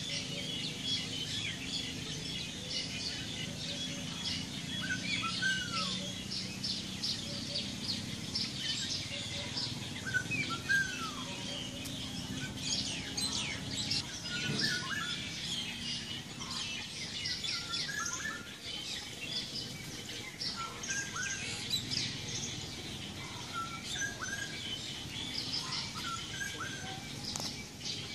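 Several songbirds calling in trees: a dense stream of quick, high chirps, with a short falling whistled note repeated every few seconds.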